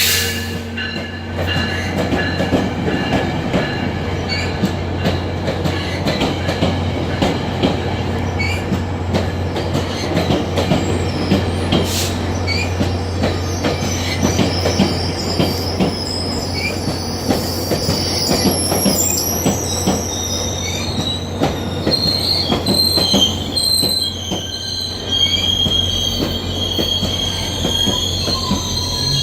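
Diesel-hauled passenger train rolling past, wheels knocking over the rail joints over a steady low drone. High wheel squeal comes in about halfway through and keeps on.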